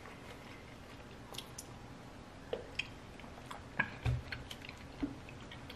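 Close-up chewing of fried food: soft wet mouth clicks and a few light crunches scattered through, with one duller low thump about four seconds in.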